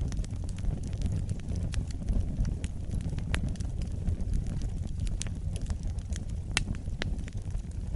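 Wood fire crackling in a fireplace: irregular sharp pops and snaps over a steady low roar of the flames. The loudest pops come past the middle.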